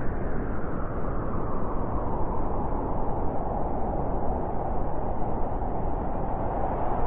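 Steady winter wind blowing, a continuous rushing noise that swells a little in its middle pitch about two seconds in.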